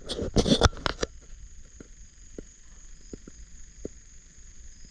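About a second of loud crackling rustle close to the microphone, then a steady high drone of night insects, with a few faint ticks.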